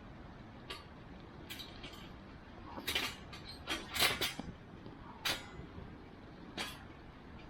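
Wood fire crackling: irregular sharp pops and snaps, bunched together about three to four and a half seconds in, over a low steady rush.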